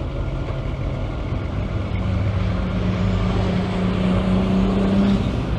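A car engine running with a steady hum that gets a little louder, its note holding steady from about two seconds in and dropping away shortly before the end.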